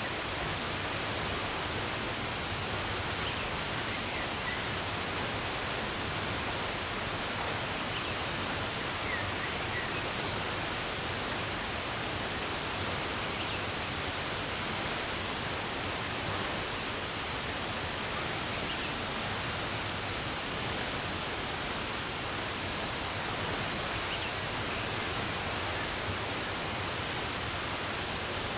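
Steady rush of running water, with a few faint, short bird chirps.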